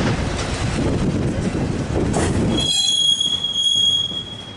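A train rolls past close by, its wheels clattering and rumbling on the rail. About two-thirds of the way through the rumble cuts off abruptly as the last car clears, leaving a high, steady wheel squeal that fades near the end.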